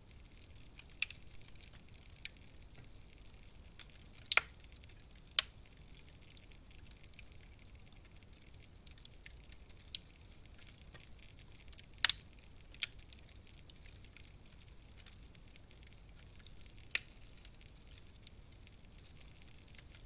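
Wood fire crackling: sharp, irregular pops and snaps from the burning logs, with the loudest pops about 4, 5 and 12 seconds in, over a faint steady hiss.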